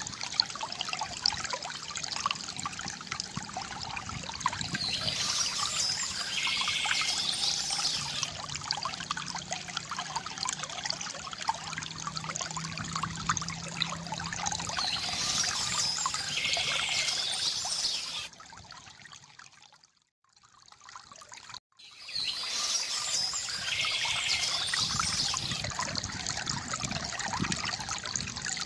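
Water trickling and pouring from a bamboo fountain, with birds chirping now and then over it. The sound fades almost to silence for about three seconds around two-thirds of the way through, then returns.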